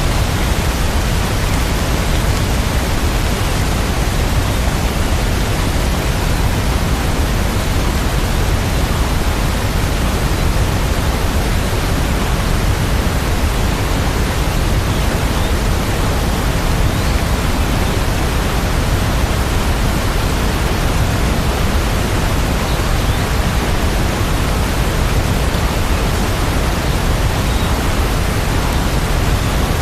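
Steady rain, heard as a dense, even hiss with no separate drops standing out.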